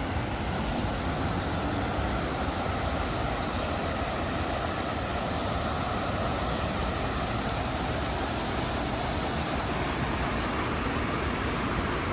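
Steady outdoor city noise: gusty wind rumbling on the microphone over the hiss of passing traffic.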